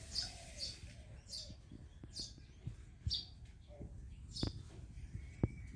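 A bird chirping: short high chirps repeated about once a second, with a few sharp taps in between.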